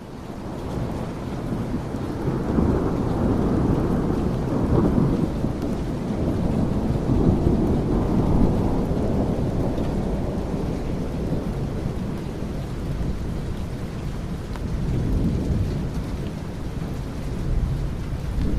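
Steady rain with thunder rumbling in long rolls, loudest in the first half and swelling again near the end. The sound fades in over the first couple of seconds.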